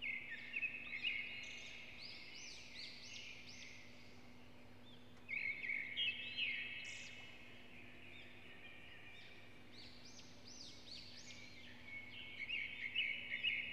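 A small songbird singing in three bouts of rapid, repeated chirping notes, at the start, about five seconds in and about twelve seconds in, over a faint steady low hum.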